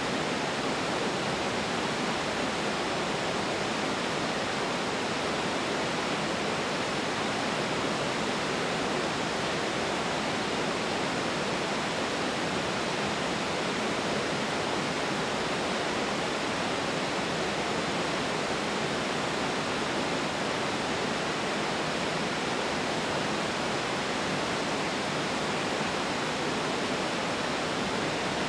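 Waterfall: a steady, unbroken rush of falling water that neither swells nor fades.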